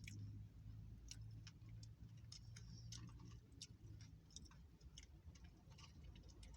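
Faint, irregular clicking mouth sounds of someone chewing a mouthful of nacho chips, over a low steady hum.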